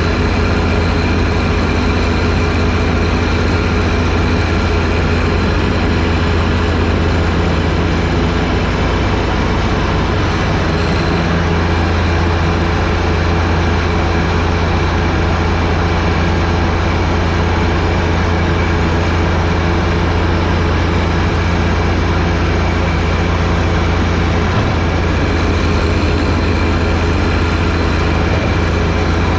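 John Deere 1025R sub-compact tractor's three-cylinder diesel engine running steadily with a deep, even hum, powering the front snowblower.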